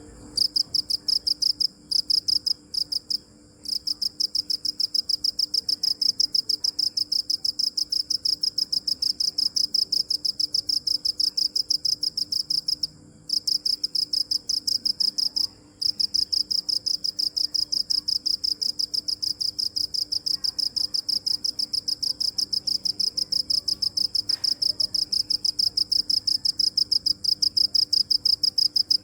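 Cricket chirping: a rapid, even stream of high-pitched pulses that starts abruptly and breaks off briefly a few times near the start and around the middle.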